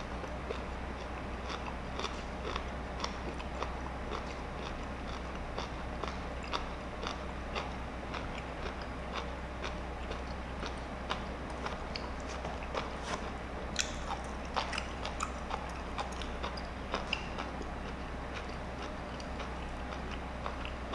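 A person chewing lemon slices with the peel on, mouth closed: a steady run of small wet clicks and crunches, about two a second, busier a little past the middle.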